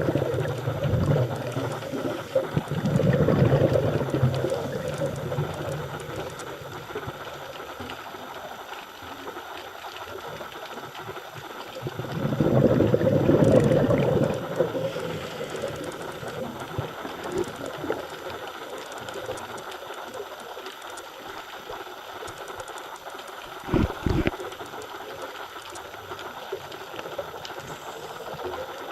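Underwater sound of a scuba diver's exhaled bubbles gushing from the regulator in three loud bursts several seconds apart, over a steady faint hiss. A single short knock about three quarters of the way through.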